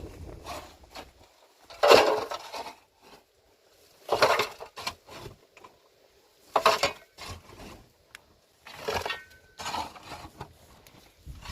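Bursts of clattering and scraping, about five of them, a couple of seconds apart, with quiet between.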